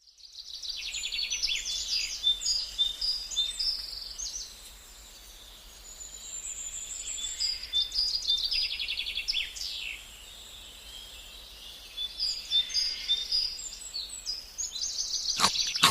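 Songbirds chirping and trilling in phrases of quick, repeated high notes, with a quieter lull about four seconds in and another about ten seconds in.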